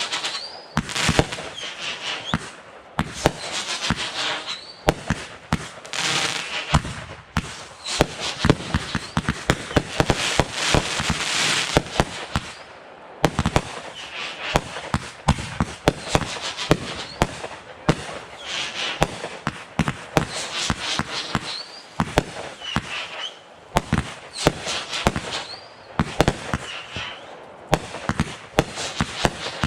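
Fireworks going off without let-up: many sharp bangs and pops, stretches of crackling, and several short rising whistles.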